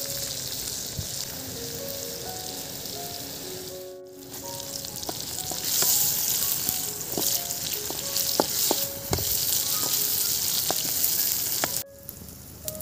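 Sliced tomatoes frying in oil in a wok over a wood fire: a steady sizzle. It drops out briefly about four seconds in, comes back louder, and cuts off sharply near the end. A soft background melody plays underneath.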